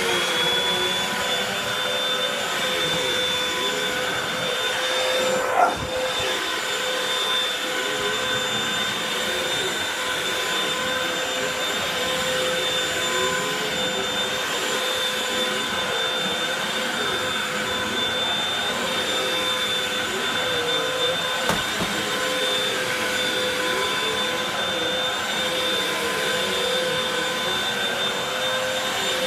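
Hoover WindTunnel upright vacuum cleaner running, its motor reaching full speed at the start and then holding a steady high whine while it vacuums carpet. A brief knock about six seconds in.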